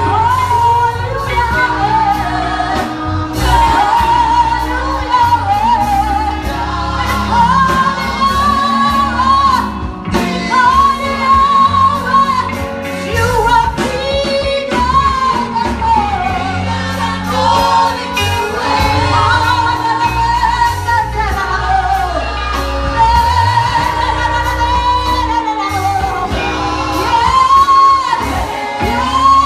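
Gospel worship music: a lead voice singing over a band with bass and drums.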